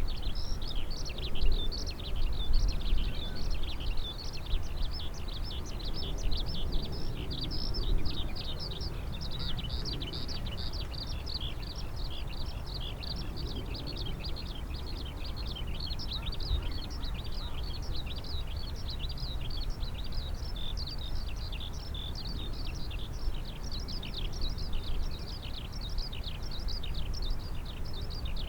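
A dense chorus of many small birds chirping rapidly and without a break, over a steady low rumble.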